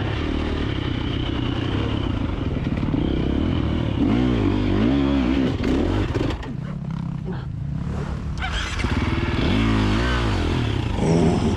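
KTM 350XC-F dirt bike's single-cylinder four-stroke engine running and being revved up and down in short bursts. It rises and falls twice, and drops to a quieter, lower run in between.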